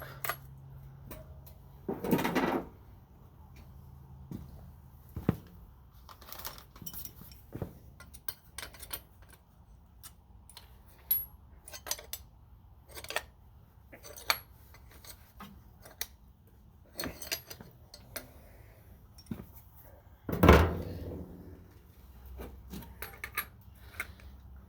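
Metal tools and small metal parts being handled and set down: scattered clinks and clicks, with two louder clatters about two seconds in and near the end.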